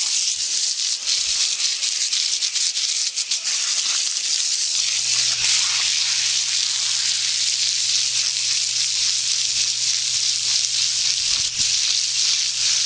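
Hose water spraying onto a horse's coat, a steady hiss with fine spattering as the spray rinses the mud off.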